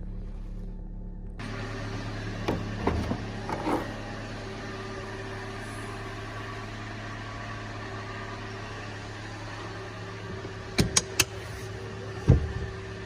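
Toyota Vitz NSP135's 1.3-litre four-cylinder engine idling steadily, with a louder rush of running noise coming in about a second in. A few knocks sound over it, around three seconds in and again near the end.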